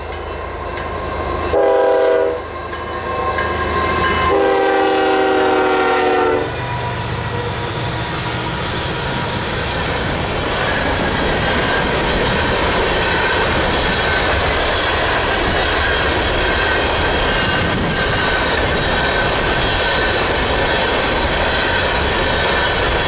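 Diesel locomotive air horn on a BNSF coal train sounding a short blast and then a long one, the close of a grade-crossing signal. The locomotives then pass with a low engine rumble, and a string of empty coal gondolas rolls by with steady wheel-on-rail clatter.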